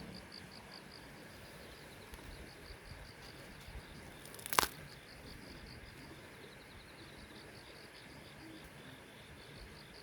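Faint insect chirping: a steady, evenly pulsing high trill, with one sharp snap about halfway through.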